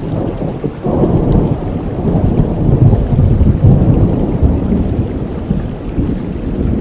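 Steady rain with a long roll of thunder that builds about a second in and slowly fades.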